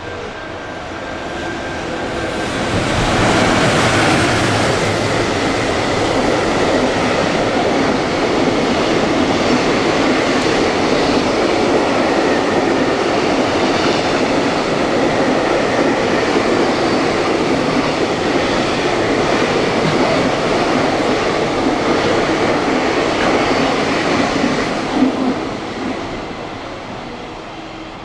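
A train passing through a station without stopping. Its rumble and wheel clatter build over the first few seconds, hold steady for about twenty seconds as the long train goes by, then fade near the end.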